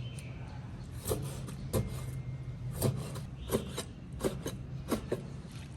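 Irregular knocks of kitchen work on a wooden surface, about eight sharp taps spread unevenly over a few seconds, over a steady low hum.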